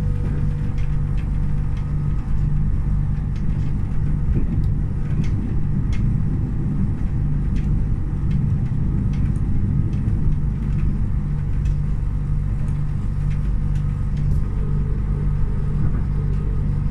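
Moving train heard from inside the passenger carriage: a steady rumble with a low hum, and scattered faint clicks and rattles.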